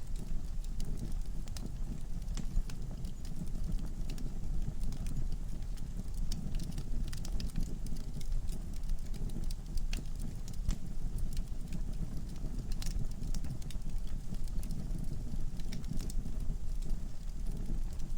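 Wood fire burning in a fireplace: a steady low rumble of flames with frequent irregular crackles and sharp pops from the logs.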